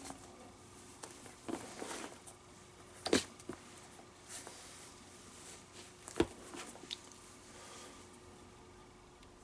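Handling of a leather baseball glove during repair work: scattered short rustles of leather, with a few sharp knocks, the loudest about three and six seconds in.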